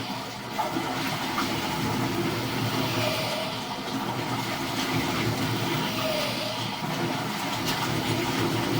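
Toilet flush water rushing through the drain, over a steady low engine hum.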